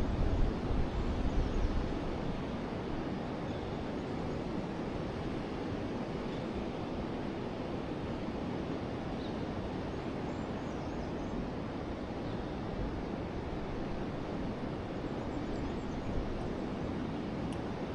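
Forest river flowing, a steady rushing of water. A few faint bird chirps come through it. Wind buffets the microphone with a low rumble in the first couple of seconds.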